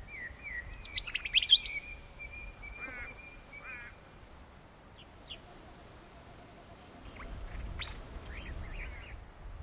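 Wild birds calling in dry scrubland: a cluster of short high chirps in the first couple of seconds, then a quick warbling trill, and scattered single chirps later on, over a faint low rumble near the end.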